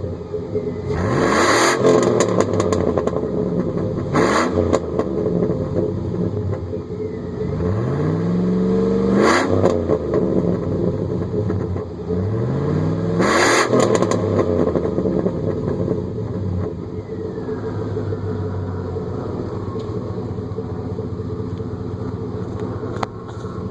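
2004 Chevrolet Silverado Z71's 5.3-litre V8 exhaust, warmed up, revved in four blips, the third held longest, then settling to a steady idle.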